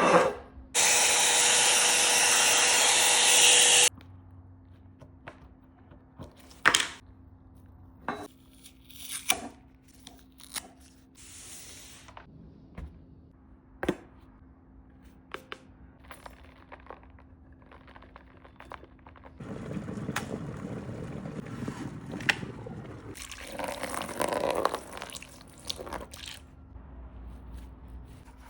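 Hands cleaning a silver ladle: a loud, steady rush for about three seconds at the start, then scattered clicks and knocks of metal being handled, and later several seconds of scrubbing or rubbing.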